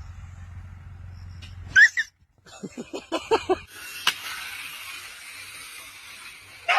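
A dog gives one sharp yelp, then a quick run of about seven short whimpering yips; a steady hiss follows from about halfway through.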